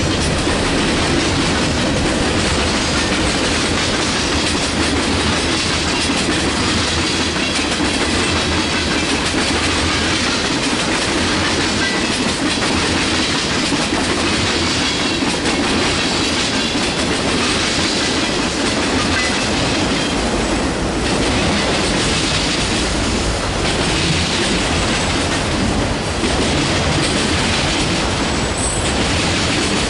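Freight train cars rolling past at close range: a steady, loud clatter of steel wheels on the rails.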